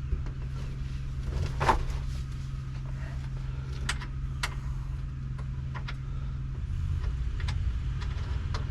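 Scattered light clicks and knocks of wiring and small parts being handled and worked loose inside a truck cab, the sharpest knock about two seconds in, over a steady low hum.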